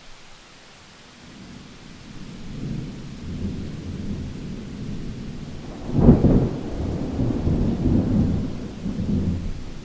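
Thunder over steady rain: a low rumble builds from about a second in, peaks in a sharp loud clap about six seconds in, then rolls on and fades.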